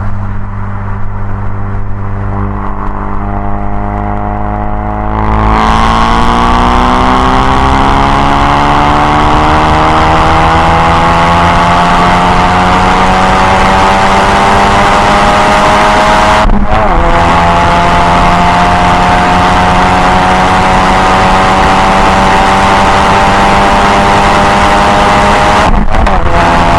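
Ford Focus RS Mk3's turbocharged 2.3-litre four-cylinder with an Ego-X aftermarket exhaust, running steadily at first, then put to full throttle about five seconds in and pulling hard with a slowly climbing pitch. Two brief breaks in the sound, about eleven and twenty seconds later, are gear changes.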